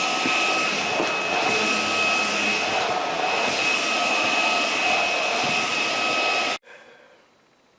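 Budget 350W cordless stick vacuum, powered by a Dewalt 20V battery, running steadily with a high whine over its airflow noise, then stopping abruptly near the end.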